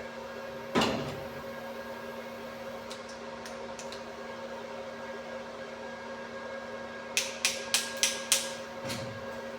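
Steady electrical hum throughout. About a second in there is one loud knock, and near the end five sharp metal clicks come in quick succession, as a freshly welded padlock is handled.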